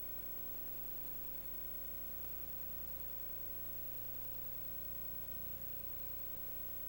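Steady electrical hum and hiss, with a faint constant tone running underneath; nothing starts or stops.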